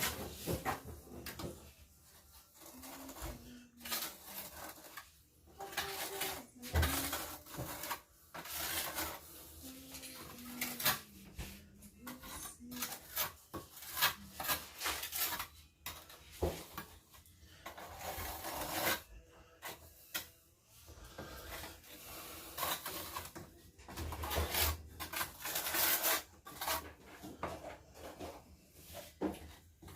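Irregular scraping, rubbing and knocking of masonry hand work as refractory bricks are cut, fitted and set in refractory mortar.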